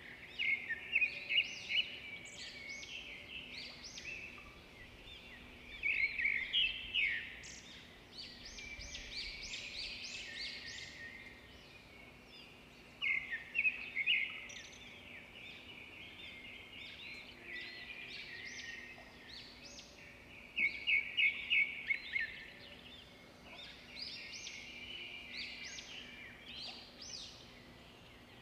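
Birds chirping in bouts of quick high notes that come every several seconds, over a quiet background with a faint steady hum.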